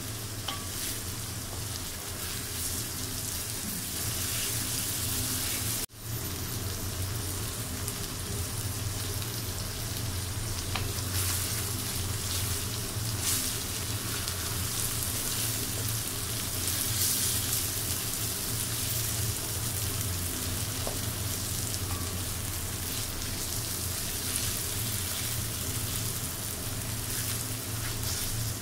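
Aair fish pieces and spice paste sizzling in hot oil in a metal kadai, stirred now and then with a wooden spatula, while the fish is braised (koshano) in the masala. The sound drops out for a moment about six seconds in.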